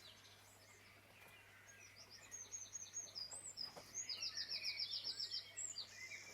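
Songbirds singing: a string of short high chirps and whistles, with a rapid trill of about ten quick notes a little after halfway, all faint.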